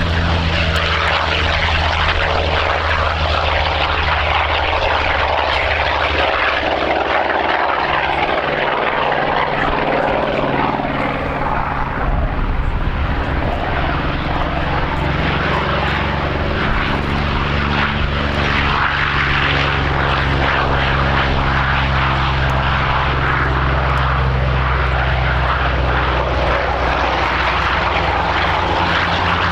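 Propeller aircraft engine running steadily in flight during a low display pass. The engine note thins out from about six seconds in and comes back stronger about twelve seconds in, as the aircraft moves away and returns.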